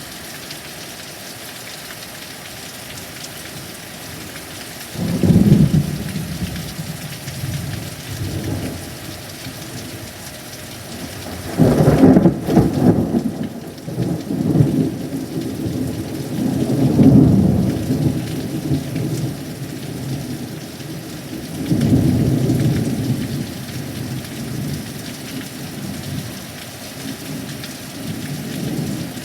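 Steady heavy rain, with a long roll of thunder that breaks in suddenly about five seconds in and rumbles on in several loud surges. The loudest is a sharp crack about twelve seconds in, and the rumbling dies away near the end.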